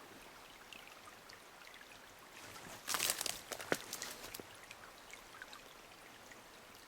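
Footsteps rustling and snapping through brush and twigs for a second or two about three seconds in, with a sharp crack among them, over a faint steady hiss.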